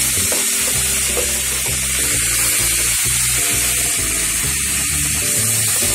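Onion and tomato-purée masala sizzling in hot oil in a pan as a spatula stirs it, with background music playing.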